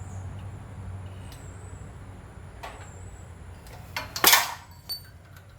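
Recoil starter cord of a Briggs & Stratton generator engine pulled once, giving a short rasping rush about four seconds in as the engine is turned over by hand to check valve movement. A faint knock comes a little before it and a small click just after, over a steady low hum.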